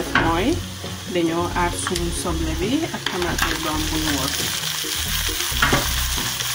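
Tomato paste frying in oil in a pan, sizzling as a wooden spoon stirs it. Pounded onions and tomatoes go in about four seconds in, and the sizzle grows denser. A wavering tune sounds in the background over the first few seconds.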